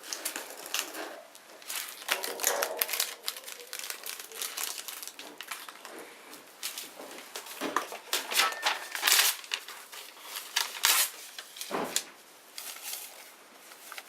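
Small wood bonfire crackling: a dense run of irregular sharp pops and snaps over a hiss, with louder clusters of pops at a few points and one duller thump near the end.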